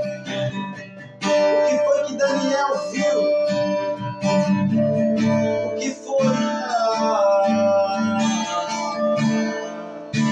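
Instrumental worship music led by strummed acoustic guitar, with sustained chords and a brief dip about a second in before the playing picks up again.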